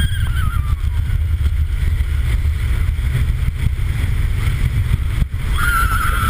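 Ride on the Volcano launched roller coaster, heard by a rider: a heavy, steady rumble of wind on the microphone and the train running on its track. A high wavering whine falls away over the first second and comes back near the end.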